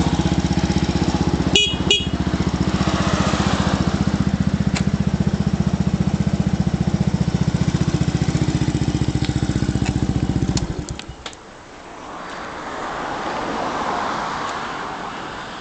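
Yamaha BW'S 125 scooter's single-cylinder four-stroke engine idling steadily, with two short horn beeps about one and a half to two seconds in. The engine cuts off about eleven seconds in, followed by a few clicks, then a broad rushing noise that swells and fades near the end.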